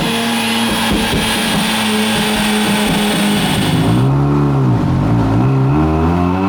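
Turbocharged Mazda 13B rotary engine in an FC RX-7 running on a dyno: a steady engine note for about four seconds, then the pitch dips briefly and climbs steadily as the engine revs up under load in a pull.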